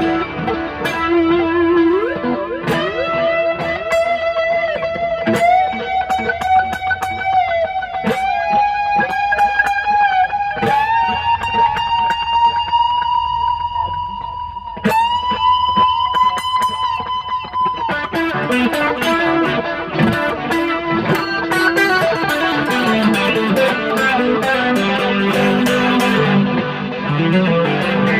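Mexican-made Fender Stratocaster played clean on the middle pickup, through an amp setting with a touch of chorus. After a slide up near the start, long held notes climb higher step by step with slides between them; then, about two-thirds of the way in, the playing turns quicker and busier, with lower notes and chords.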